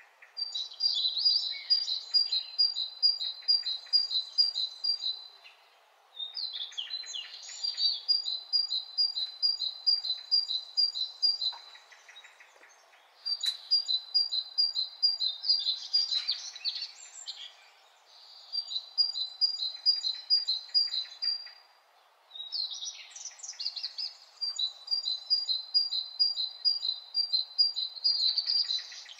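A songbird singing about five phrases of quick, evenly repeated high notes, each phrase a few seconds long with short pauses between, over steady background noise.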